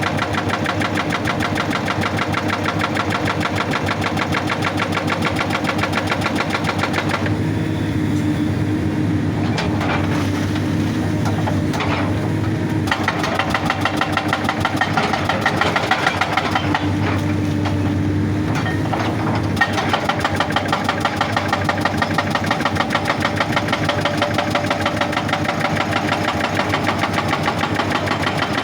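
Excavator-mounted hydraulic rock breaker hammering rock with rapid, even blows over the excavator's diesel engine. The hammering breaks off for several seconds in the middle, when the engine is heard more plainly with a few separate knocks, then resumes.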